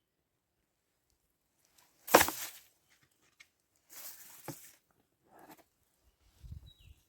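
Silence, then a few sudden rustling and knocking handling noises, the loudest and sharpest about two seconds in, the rest fainter and spread out.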